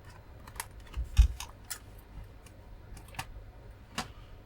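An HDMI lead and other cables being handled and plugged in on a bench: a few scattered light clicks and taps, with a dull thump a little over a second in.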